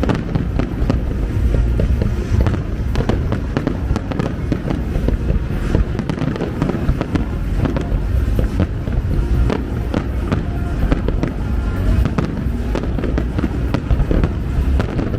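Fireworks display going off continuously: a dense stream of bangs and crackles over a deep rumble, with music playing underneath.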